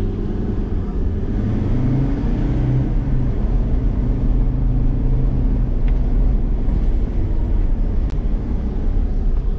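Four-wheel-drive's engine pulling steadily under load as it climbs a steep, rough track towing a camper trailer, getting a little louder over the first couple of seconds.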